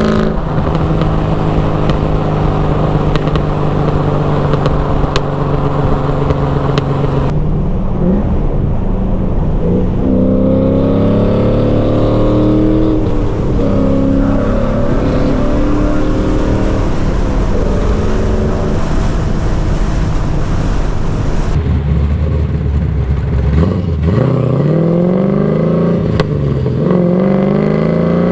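LS1 V8 engine in a BMW E36 driving with its exhaust loud. The revs hold steady at first, then drop and waver about a quarter of the way in. Near the end they climb in a couple of rising sweeps, each broken off as if by a gear change.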